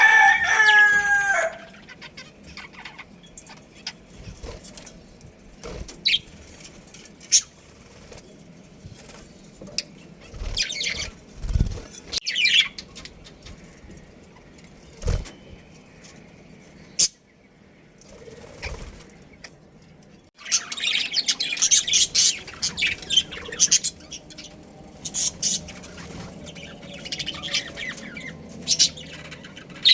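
A rooster's crow tails off in the first second and a half, followed by scattered chirps and a few low thumps. About two-thirds of the way through, a busy run of high small-bird chirping and chatter starts.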